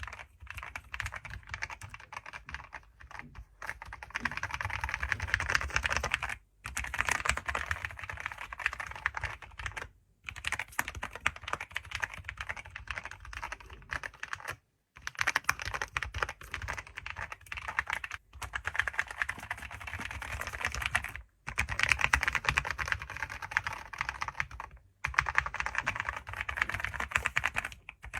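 Fast typing on a computer keyboard: rapid key clicks in runs of a few seconds, with brief pauses between runs.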